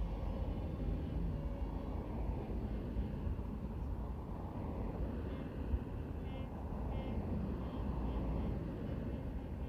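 Steady rumble of lorries and road traffic driving past on a main road.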